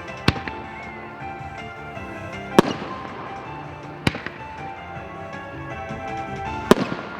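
Four sharp fireworks bangs, a second or two apart, over background music that plays throughout.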